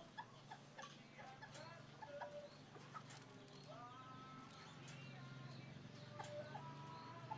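Faint animal calls, many short clucking notes and a few longer held calls, over a steady low hum.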